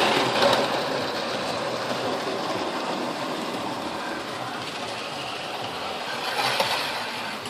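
Model train running round the track, pulling track cleaning cars: a steady whirring rush of the locomotive's motor and wheels on the rails, easing off slightly and swelling briefly again about six and a half seconds in.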